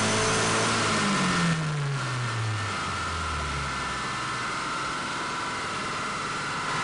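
Turbocharged engine on a chassis dyno winding down after a boost pull: its note falls steadily over about two seconds, starting about a second in. A steady whine and rushing noise carry on after the engine note has dropped away.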